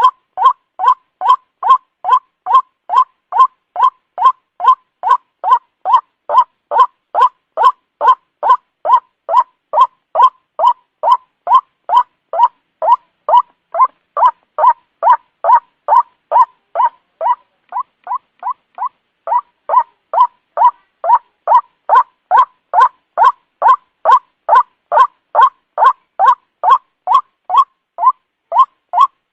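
White-breasted waterhen (ruak-ruak) lure call: short calls repeated evenly and fast, nearly two a second, each centred around 1 kHz. A handful of calls a little over halfway in are softer.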